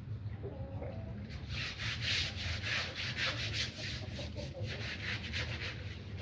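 Rapid, rhythmic scraping strokes, about five a second, starting about a second in, like something being scrubbed or rubbed, over a steady low hum.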